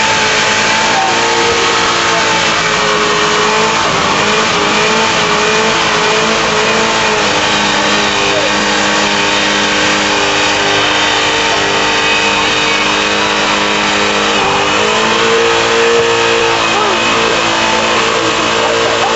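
Corvette engine held at high revs through a burnout, its pitch wavering slightly over a steady rush of noise. The revs dip briefly about fourteen seconds in, then climb again.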